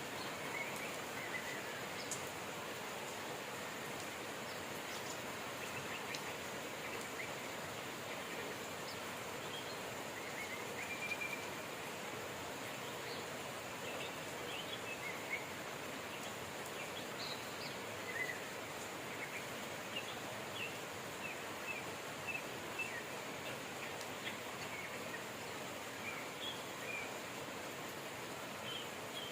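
Steady rain with birds chirping over it, short high chirps coming now and then and more often in the second half.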